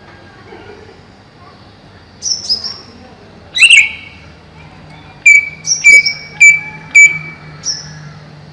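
Greater green leafbird (cucak ijo) calling: two short high whistled notes, one loud sharp call, then a quick run of about six loud sharp notes, each ending in a brief held whistle.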